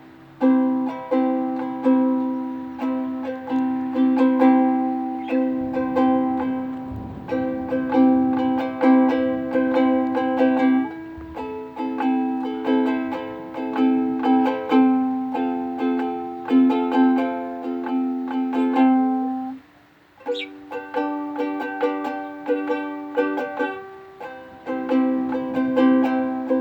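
Ukulele being played: chords struck in a steady rhythm and left ringing, with a short break about twenty seconds in before the playing resumes.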